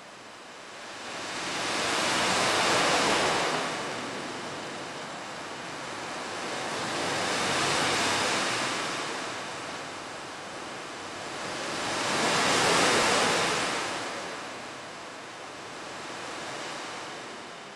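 Ocean surf: waves swell and wash back in slow cycles about five seconds apart, three strong swells and a weaker one near the end, with no tune or pitched tone.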